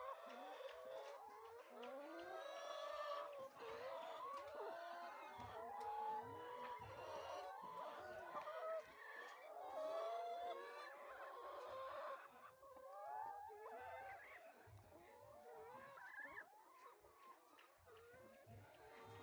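A flock of laying hens clucking and calling, with many short overlapping calls. The calls are busiest for about the first twelve seconds, then grow sparser and fainter.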